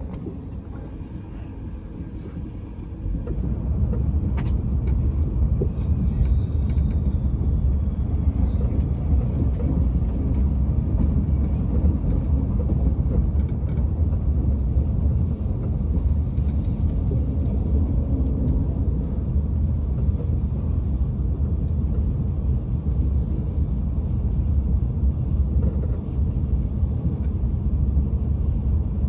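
TGV high-speed train running, heard from inside the carriage: a steady low rumble that grows louder about three seconds in and then holds level.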